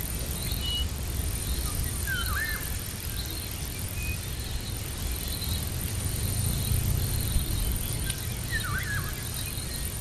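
Outdoor ambience of insects, likely crickets, chirping in short pulses at an even pace over a thin steady high whine and a low rumble. A bird gives a short twisting whistled note twice, about two seconds in and near the end.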